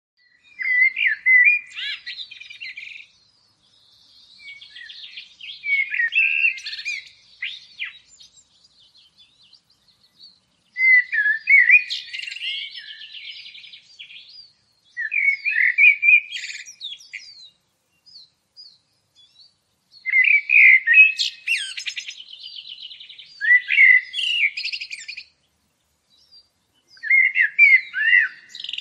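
A songbird singing in about seven separate phrases of two to three seconds each, made of quick chirps, glides and trills, with short silent pauses between the phrases.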